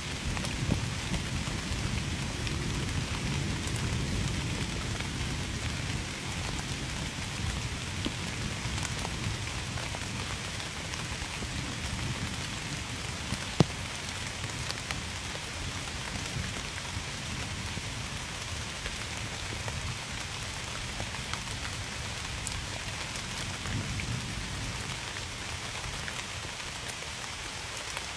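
Steady heavy rain with scattered drops ticking, and a low thunder rumble that dies away over the first several seconds. One sharp drop tick stands out about halfway through.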